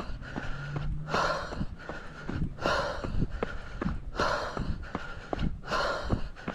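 Heavy breathing of a trail runner climbing a steep uphill trail, one loud breath about every second and a half, with footsteps between the breaths: the labored breathing of a hard uphill effort.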